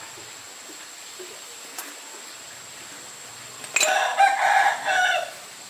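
A rooster crows once, starting about two-thirds of the way in and lasting about a second and a half, over a faint steady hiss.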